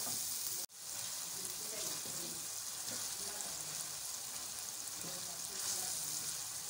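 Onion-tomato masala with a little added water sizzling steadily in a steel karahi while a wooden spoon stirs it. The sound drops out briefly a little under a second in.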